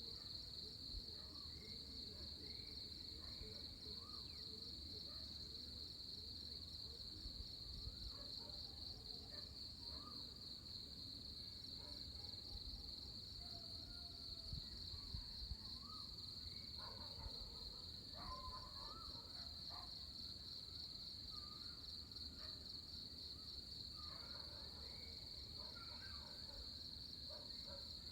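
A steady chorus of insects making a continuous high, fast-pulsing trill. Over it, birds give scattered chirps and short whistled calls, busier around the middle and again near the end.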